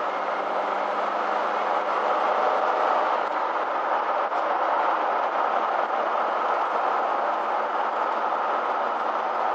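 Steady driving noise heard from inside a moving motorhome: tyre and engine noise with a faint, steady low hum.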